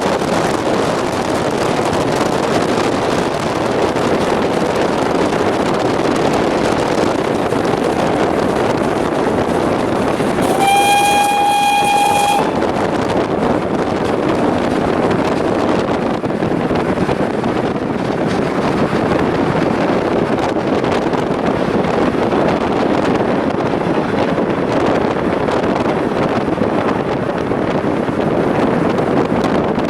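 Steady running noise of a train on the rails, with a steam locomotive's whistle blowing once for about a second and a half near the middle.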